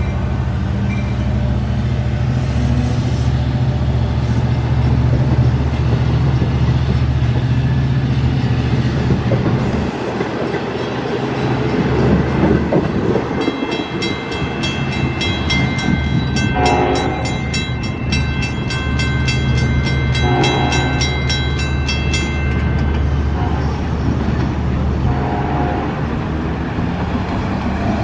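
Long Island Rail Road diesel train running with a steady low engine hum. About halfway through, a grade-crossing bell rings rapidly for several seconds, and the train horn sounds in short blasts, twice during the bell and once more near the end.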